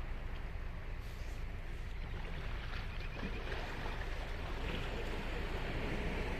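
Ocean surf washing on a sandy beach, a steady rushing with a low rumble beneath. A wave swells louder about five seconds in.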